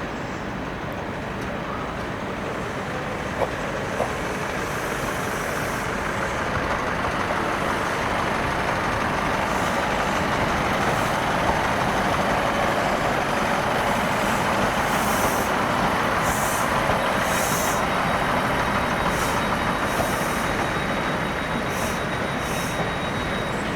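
A train running at a station platform, its engine noise steady and building gradually. Two sharp clicks come a few seconds in, and short hisses of brake air come repeatedly in the second half, with a faint high whine near the end.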